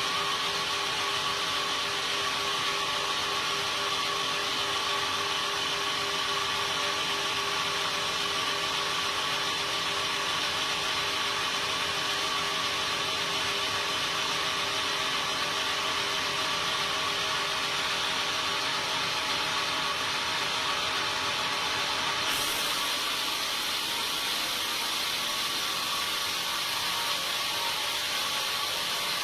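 Sawmill saw running steadily with a constant whine, cutting timber. A brighter hiss joins in about three-quarters of the way through.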